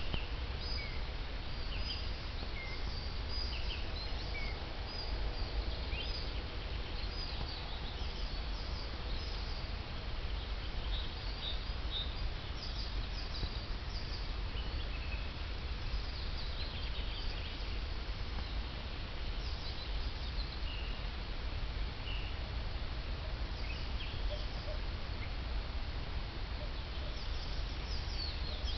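Spring chorus of several songbirds, with short high chirps and trills coming throughout from different birds, over a steady low rumble.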